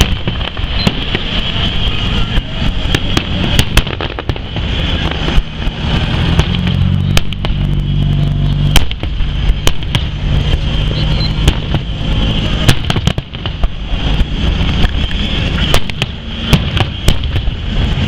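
Fireworks display going off in a dense, rapid run of bangs and crackles with no pause. A low steady drone sits underneath for several seconds in the middle.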